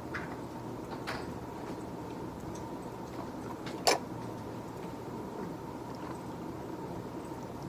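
Steady low room hum with a few faint taps, and one sharp, loud click about four seconds in.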